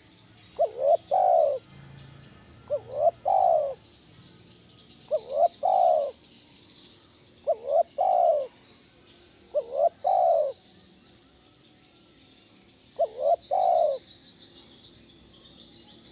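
Spotted dove (tekukur) cooing loudly, six calls, each two short coos followed by a longer drawn-out one, repeated every two to three seconds with a longer pause before the last. Faint chirping of small birds runs behind.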